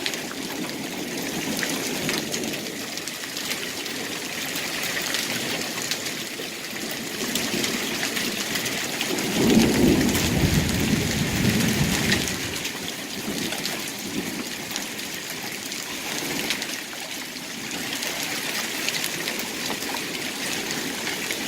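Heavy rain and hail pelting down in a severe thunderstorm, a dense patter of sharp hailstone hits. A rumble of thunder swells about nine seconds in and lasts around three seconds.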